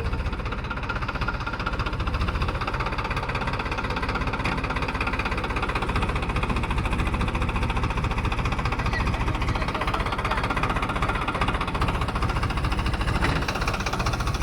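Diesel tractor engine running steadily, its rapid even firing pulses heard throughout.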